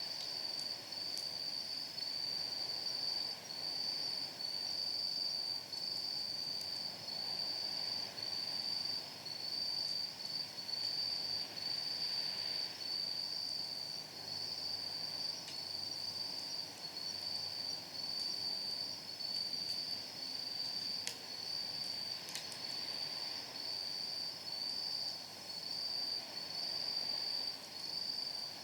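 Crickets trilling at night: one steady high trill that pulses about one and a half times a second. A few faint crackles from firewood burning in a steel fire pit come through now and then.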